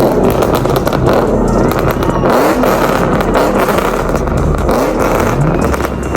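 Loud car exhaust with an engine revving up and falling back several times.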